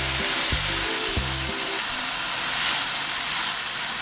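Pesto sizzling in hot olive oil in a frying pan as it is stirred with a spatula: a steady frying hiss.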